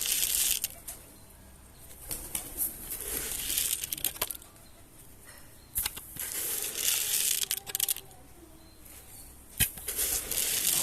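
A pigeon flapping its wings in four separate bouts of fluttering, each lasting one to two seconds, with a few sharp clicks between them.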